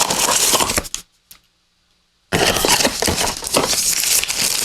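Plastic packaging being handled, crinkling and rustling. About a second in it cuts to dead silence for just over a second, then the crinkling resumes.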